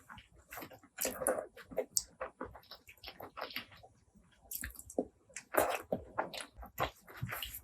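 Close-miked chewing and wet mouth sounds of someone eating, in irregular clusters of smacks and squishes.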